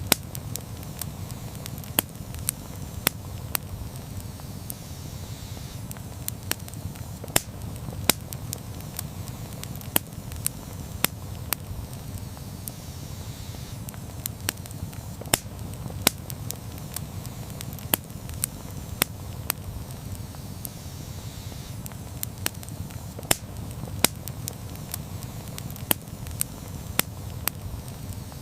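Wood campfire crackling: irregular sharp pops and snaps, several a second at times, over a steady low rumble of burning flames.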